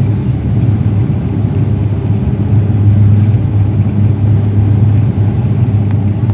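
Dash 8 turboprop airliner running, a steady loud low drone of its propellers and engines.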